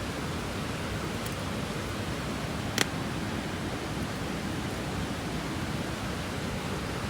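Steady rushing of a mountain stream, with one sharp click about three seconds in.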